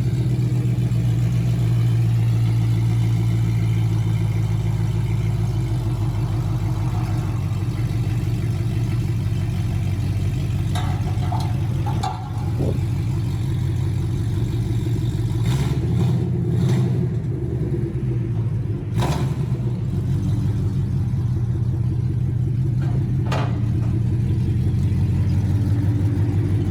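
Ford Mustang engine idling steadily through its exhaust. A few sharp knocks or clanks break in now and then.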